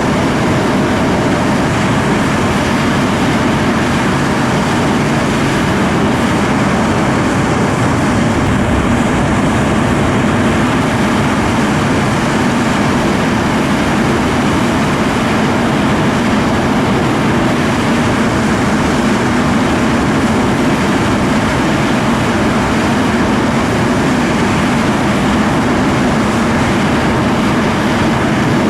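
English Electric Lightning F6's twin Rolls-Royce Avon turbojets running at high power, a loud, steady jet noise that holds without rising or falling.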